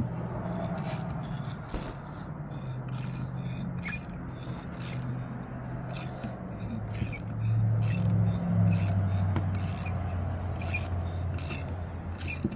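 Tap being turned into a worn starter bushing, cutting the metal in short strokes: a run of repeated rasping scrapes, about two a second. Underneath is a low steady hum that swells about seven seconds in.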